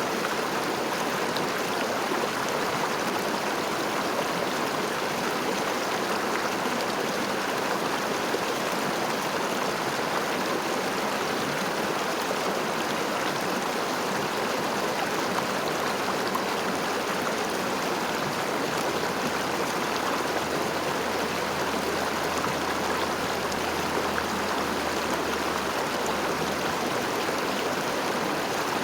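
River water running steadily, an even, unbroken rush of flowing water.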